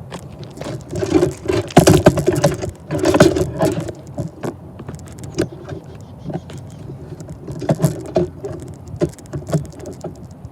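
Freight train cars rolling past, with irregular clanks, knocks and rattles. The clatter is loudest from about one to four seconds in and flares again near eight seconds.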